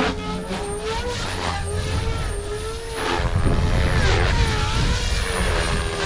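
OMPHOBBY M4 electric RC helicopter flying 3D at about 2700 rpm head speed, its motor and rotor whine swinging up and down in pitch over and over as it is thrown through manoeuvres. Wind buffets the microphone with a low rumble.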